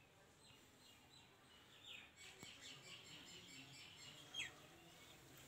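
Faint bird chirping over near silence: a quick run of short high chirps begins about two seconds in, ending with a single falling call.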